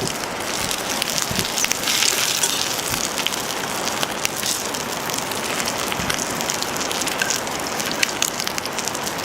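Food sizzling in a pan over a wood fire, a steady hiss dotted with sharp pops and crackles.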